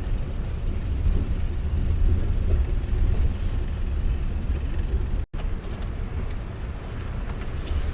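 Road vehicle driving, a steady low rumble of engine and road noise, broken by a brief dropout about five seconds in.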